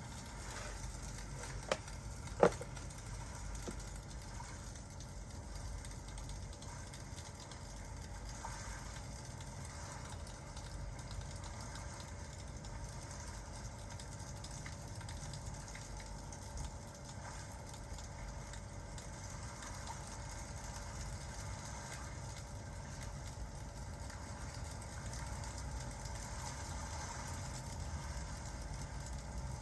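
Crackling fireplace ambience: a steady low rumble with two sharp pops about two seconds in and a few faint crackles later.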